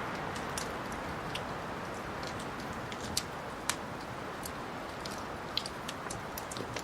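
Wood fire in a fireplace crackling, with a steady low rush of flame and scattered sharp pops, the two loudest about three and three and a half seconds in.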